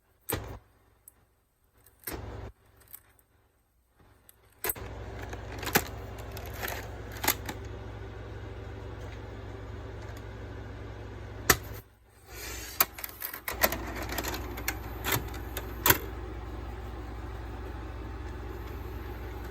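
A VHS cassette and VCR being handled, with a few sharp clicks and a short clunk amid near silence. After about five seconds a steady low hum sets in, broken by scattered sharp clicks and knocks.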